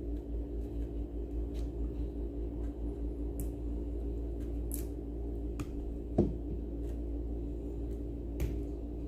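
Scattered light clicks and handling noises from work on a blender's parts, with one sharper knock about six seconds in, over a steady low hum.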